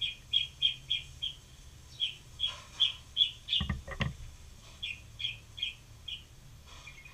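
A small bird chirping in short runs of quick, high notes, about three a second, with pauses between the runs. Two sharp knocks come about halfway through.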